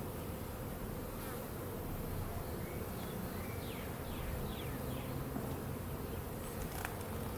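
Honeybees buzzing in a steady low drone around an opened hive.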